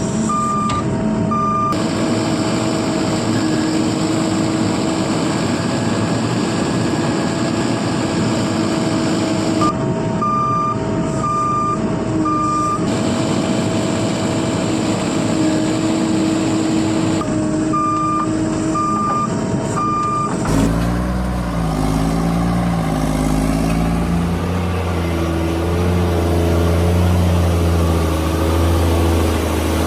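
Reversing alarm on a heavy construction vehicle beeping in sets of about four beeps, three times, over the vehicle's steady running engine. About two-thirds through, the sound changes abruptly to an engine revving, its pitch rising and falling.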